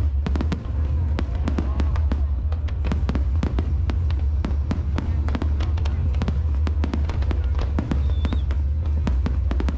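Aerial fireworks display: a dense run of sharp cracks and bangs, several a second, over a steady low rumble.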